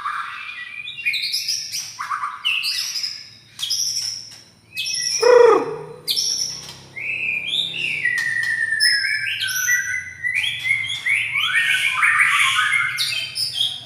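White-rumped shama (Medan murai batu) in full song: a loud, varied run of rapid whistles, trills and slurred phrases. About five seconds in there is one loud down-sweeping note, and from about seven seconds the bird sings almost without a break.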